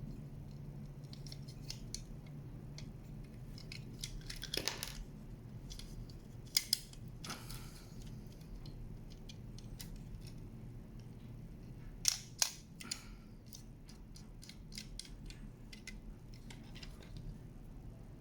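Scattered small clicks and taps over a low steady hum, with a few louder sharp clicks, two close together about 12 seconds in.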